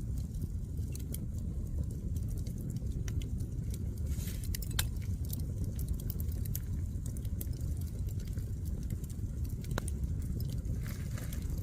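Wood fire crackling: irregular sharp pops and snaps over a steady low rumble, with a brief hiss about four seconds in.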